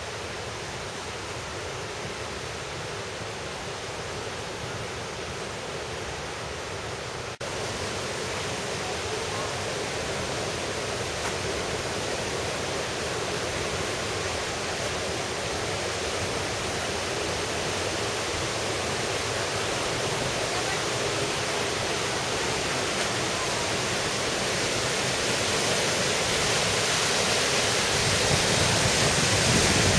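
Rushing water of a valley stream, a steady hiss with a brief break about seven seconds in, then growing gradually louder.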